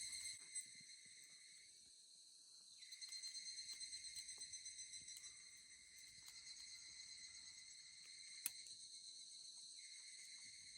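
Insects chirping faintly in a steady, pulsing chorus, with one sharp click about eight and a half seconds in.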